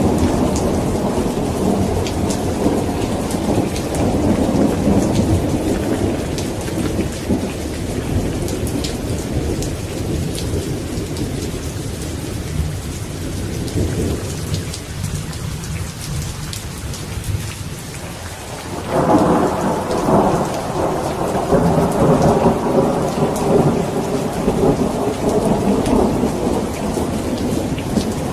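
Steady heavy rain with rolling thunder. One rumble fades away past the middle, then a fresh roll of thunder breaks in about two-thirds of the way through and rolls on under the rain.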